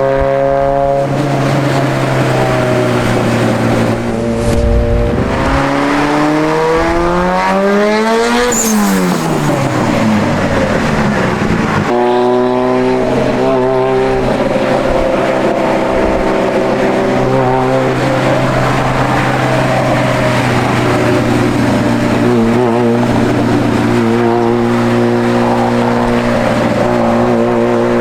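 Engine of a tuned 836 hp Mitsubishi Lancer Evolution X running at steady revs. About five seconds in it revs up sharply, then falls back over the next few seconds and settles steady again.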